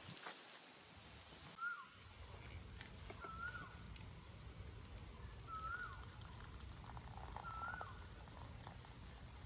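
A bird giving a short whistled call four times, about every two seconds, each note quickly rising and falling, over a faint steady background hiss.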